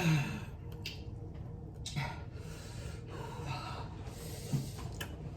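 A person breathing hard and sniffing in short, breathy bursts from the heat of a spicy hot wing, with a brief falling vocal sound at the start.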